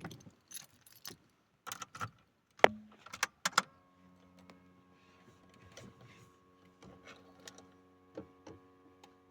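Car keys jangling and the ignition switch clicking as the key goes in and turns, the loudest click about two and a half seconds in. A faint steady hum then starts a little later, with a few light clicks over it.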